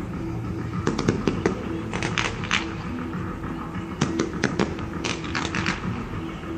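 Aerial fireworks crackling and popping in quick clusters, about four volleys of sharp cracks a second or so apart.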